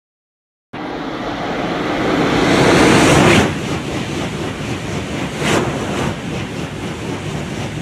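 High-speed train rushing past: a swelling rush of air noise that builds for about three seconds and then drops suddenly, followed by a steadier rush with a brief swell near the middle.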